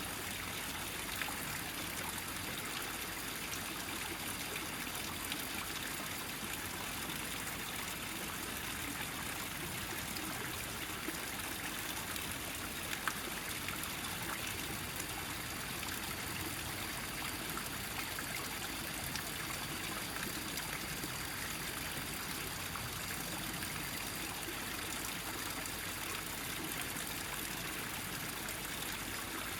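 Small mountain stream running steadily over rocks, a collected flow with light trickling and splashing.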